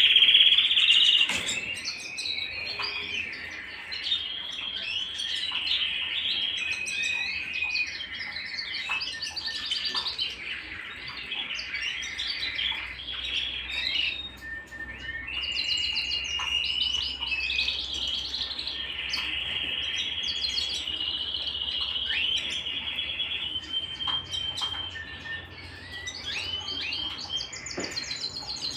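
Domestic canary singing a long continuous song of rapid rolling trills, held notes and quick chirps, loudest in the first second or so.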